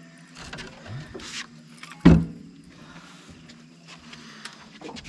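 A single sharp knock about two seconds in, ringing briefly, over a steady low hum.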